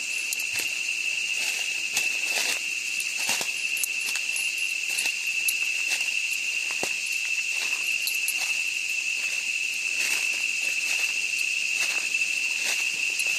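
Insects in a forest giving one steady, unbroken high-pitched drone, with footsteps on the leaf-littered forest floor crunching about once a second.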